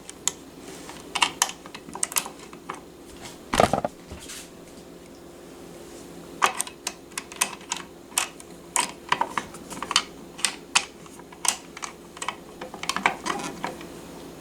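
Screwdriver work on a sewing machine's metal cover plate: irregular small clicks and taps as the screw is turned out and the plate is handled, with one louder knock about three and a half seconds in, over a faint steady hum.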